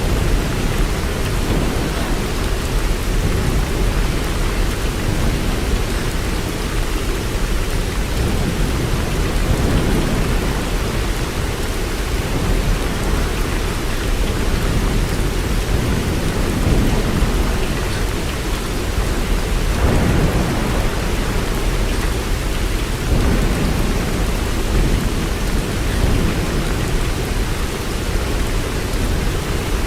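Steady heavy rain, a dense even hiss over a strong deep rumble that swells and eases slightly without letting up.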